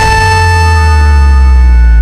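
Electronic BMX start-gate cadence: the final long, higher-pitched beep that signals the gate drop, held steady over a heavy low rumble of the gate falling.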